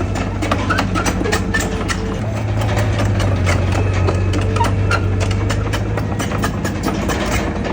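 Heavy diesel engine of earthmoving machinery running steadily, with a dense, irregular clatter of sharp knocks over its low hum.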